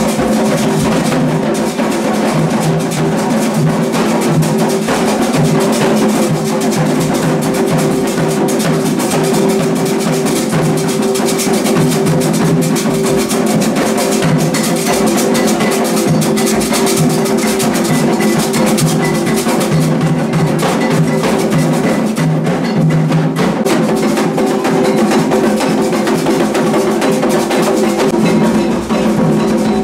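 Candomblé ritual drumming on atabaque hand drums, a dense, continuous beat.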